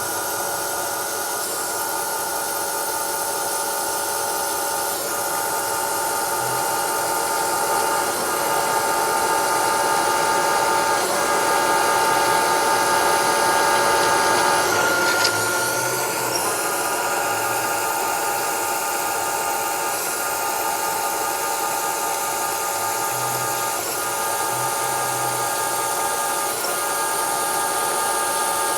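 Manual milling machine spindle running at about 250 RPM with a steady whine while a tool cuts a hole in a steel plate, with the high hiss of mist coolant. The sound shifts briefly about halfway through.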